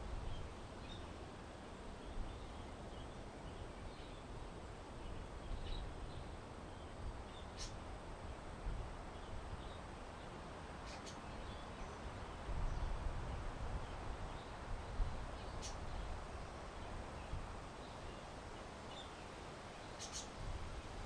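Outdoor ambience of wind rumbling on the microphone, with faint small-bird chirps scattered through it and a few sharp ticks. The wind swells for a couple of seconds near the middle.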